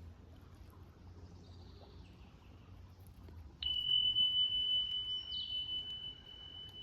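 Faint bird chirps, then a steady high-pitched pure tone starts suddenly about three and a half seconds in and holds unchanged.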